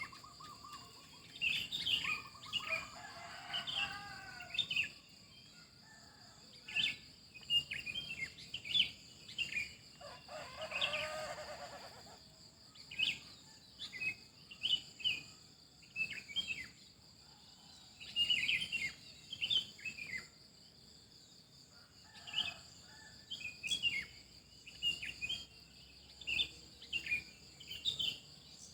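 Morning bird chorus: several birds giving many short high chirps and calls, with a longer, lower call about ten seconds in, over a steady high-pitched insect buzz.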